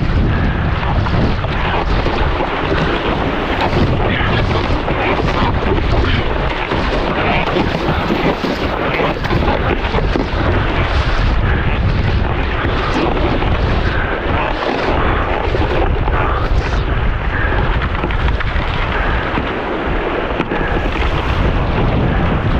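Gale-force wind buffeting the microphone over rushing, splashing sea water as a surfski runs downwind on ocean swells; a loud, steady roar throughout.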